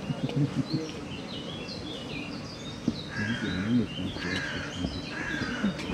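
Birds calling: scattered high chirps, then from about halfway a run of four similar calls about a second apart, over a low background murmur.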